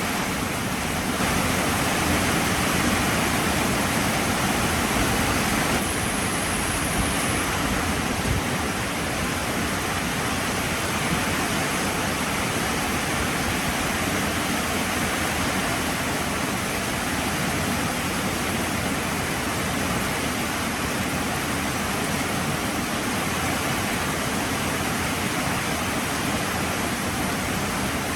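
Heavy rain falling, a steady dense hiss of downpour, slightly louder in the first few seconds.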